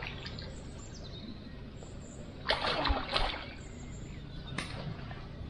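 Water splashing briefly about halfway through, a hooked pangasius thrashing at the surface of the pond, followed by a single sharp click near the end.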